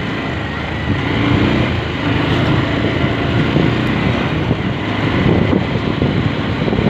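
Motorcycle running while being ridden along the road, a steady engine-and-road noise that gets louder about a second in.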